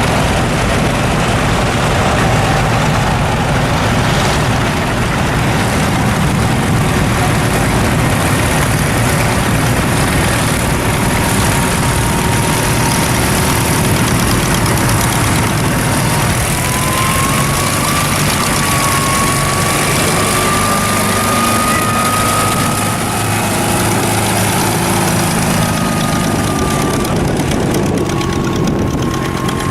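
Vintage tractor engines running steadily at idle. A faint thin wavering tone sits over the engine noise in the second half.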